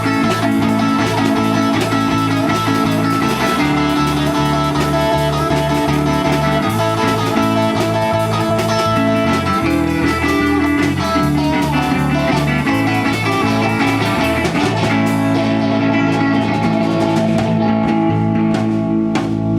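Small band playing an instrumental, blues-rock passage with no singing: electric guitar over bass notes and drums.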